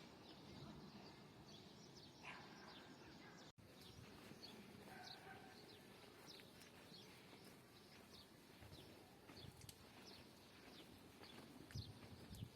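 Faint small-bird chirping, many short scattered calls over a low steady outdoor background hiss.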